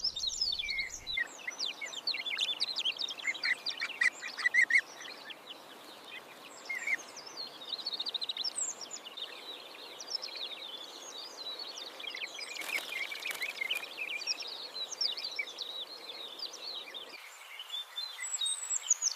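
Small birds chirping and twittering: many short, high calls overlapping, loudest about four to five seconds in, over a faint background hiss.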